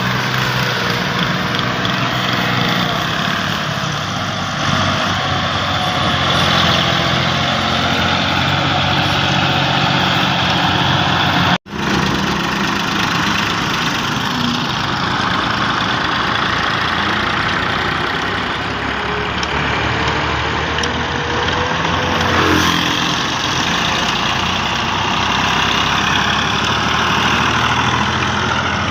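Massey Ferguson 135 tractor engine running steadily, with the sound dropping out for an instant about twelve seconds in.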